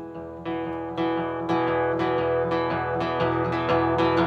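Acoustic guitar strummed in an instrumental passage of a live song, with no singing. It steps up in loudness about half a second in and again at one second, then strums on steadily.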